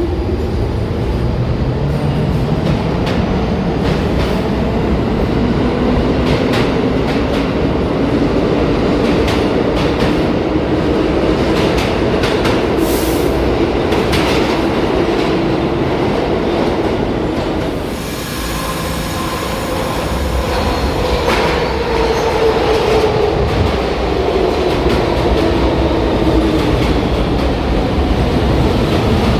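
New York City subway train pulling out of the station, its traction motor whine rising steadily in pitch, with wheels clicking over the rail joints. About two-thirds of the way through, a train's motor whine falls in pitch as it slows.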